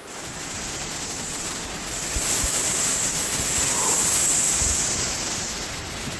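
Hurricane-force wind with driving rain, a steady rushing that swells into a stronger gust about two seconds in, buffeting the microphone.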